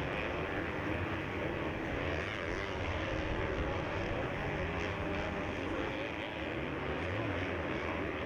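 Several motocross bike engines racing, a continuous drone whose pitch wavers up and down as the riders work the throttle.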